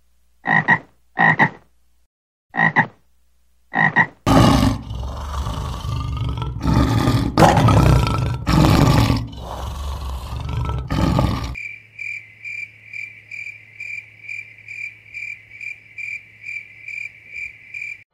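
A frog croaking four short times, then a lion roaring in a run of deep calls for about seven seconds. From about eleven and a half seconds in, a steady train of high chirps repeats about two to three times a second.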